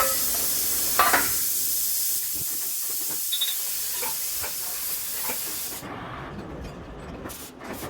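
CNC plasma cutter hissing as it cuts pipe, the hiss weakening and dying away about six seconds in.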